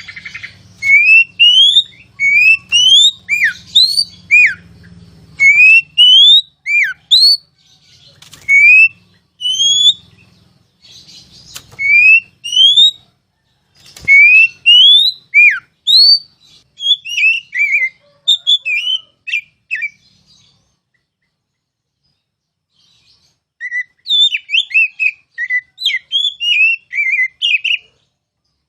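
Oriental magpie-robin (kacer) singing loud, clear rising whistles a little over once a second, the 'ngeplong' style. These give way to quicker, varied chattering phrases, then a pause of about three seconds, then more rapid varied notes.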